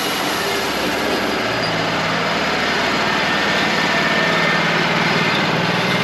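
Wood-Mizer LT35 hydraulic portable sawmill running, its engine humming steadily under a dense mechanical noise that grows a little louder about a second in.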